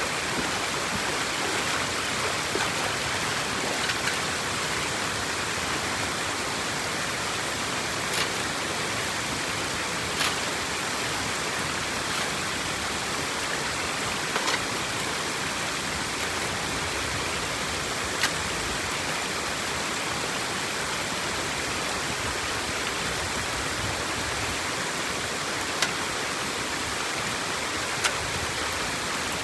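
Water rushing steadily through a drain outlet, with a few short sharp clicks scattered through.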